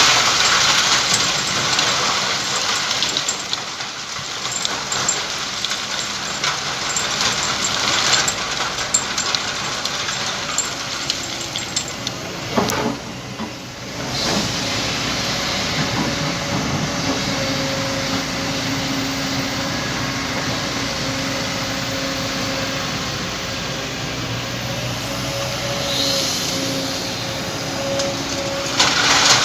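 Steady hissing of hot volcanic lahar sand steaming as it is loaded into a truck bed, with a heavy engine humming underneath from about halfway through.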